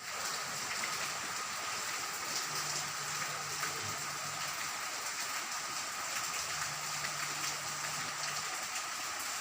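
Steady rain falling, an even hiss of rain on surfaces. A faint low hum comes in twice, each time for about two seconds.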